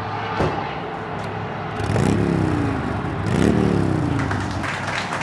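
Car engine running with a steady low hum, revved twice, its pitch rising and falling each time, about two and three and a half seconds in.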